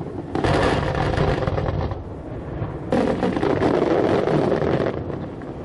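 Fireworks going off: two loud barrages, one about half a second in and another about three seconds in, each a dense crackle lasting a second or two.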